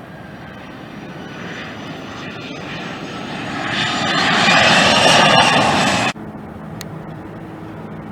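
Jet airliner passing close by. Its engine noise builds to a loud peak with a high whine falling in pitch, then cuts off abruptly about six seconds in. A quieter steady low hum follows.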